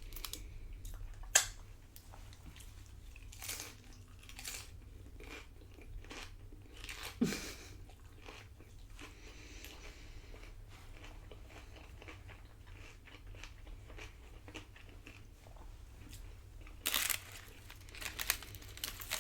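A person chewing loaded nachos close to the microphone, with irregular crunches of tortilla chips and a denser run of crunching near the end.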